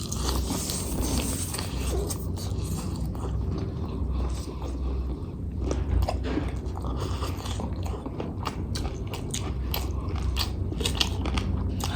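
Close-miked biting and chewing of a spicy fried chicken lollipop, with many small crisp clicks and crunches.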